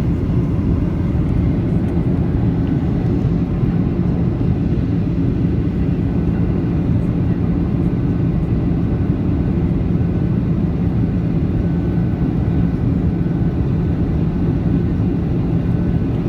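Steady cabin noise inside a Boeing 737-800 on approach: a loud, even rush of engine and airflow noise with a low hum, heard from a window seat near the wing.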